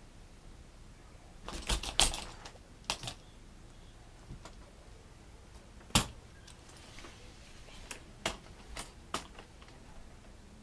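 Scattered sharp clicks and knocks, several close together about two seconds in, a single loud knock about six seconds in, and a few lighter clicks near the end.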